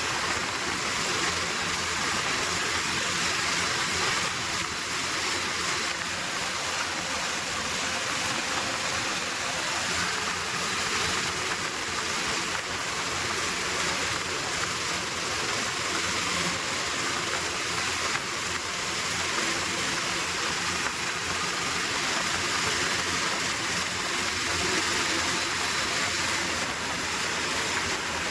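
Steady rushing wind and road noise of a tractor travelling at speed, with a faint engine hum underneath.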